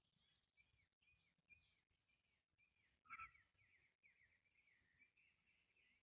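Faint backyard birdsong: a quick run of short, high chirps repeating, with one louder, lower call about three seconds in.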